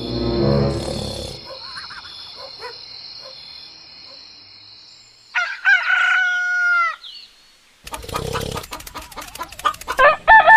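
Rooster crowing twice: one crow about five and a half seconds in, another starting near the end. A low rumble comes at the start and a run of rapid clicks before the second crow.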